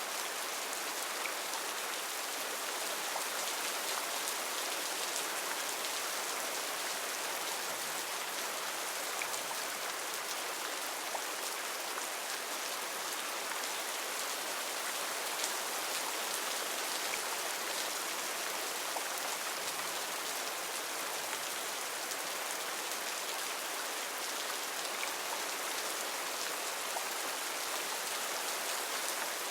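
Heavy rain falling steadily in a rainforest, a dense even hiss of drops with faint scattered ticks of individual drops.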